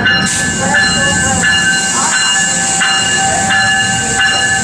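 NJ Transit electric Multilevel push-pull train moving along the platform. A steady whine of several tones runs throughout, and a high hiss comes in just after the start.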